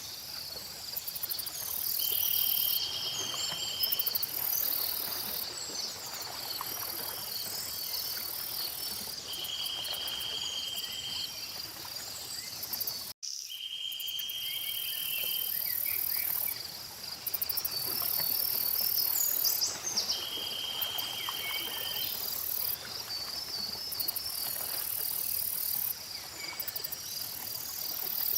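Layered outdoor nature ambience: a steady chorus of crickets and other insects, with birds chirping and warbling over it and a short buzzy trill that comes back four times. The sound cuts out for an instant about halfway through.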